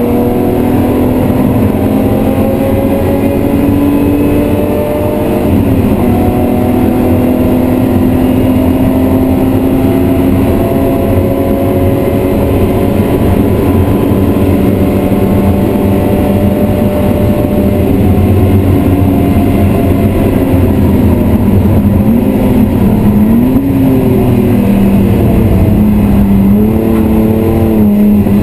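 BMW E36 M3's 3.0-litre straight-six at full work on track, heard from inside the cabin. The engine note steps down once about five seconds in, holds a long steady pull, then rises and falls quickly several times in the last third.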